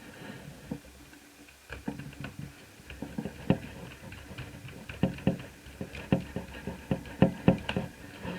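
Irregular clicks and taps of hard laptop parts being handled and fitted by hand, a dozen or more sharp knocks, busiest in the second half.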